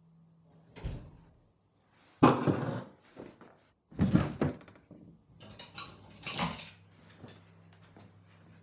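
Knocks, thumps and rustling handling sounds in a small room: a dull thump about a second in, then several louder bursts of scraping and knocking over the next few seconds.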